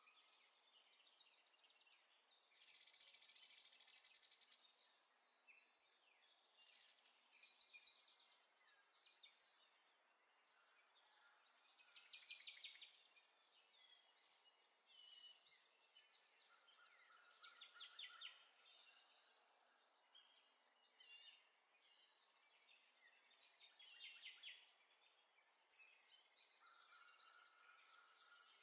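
Faint bird chirps and trills, coming in irregular bursts.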